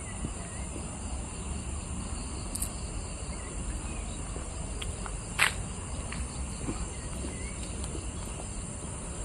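Steady high-pitched drone of insects, with a few faint short chirps and one sharp click about five seconds in.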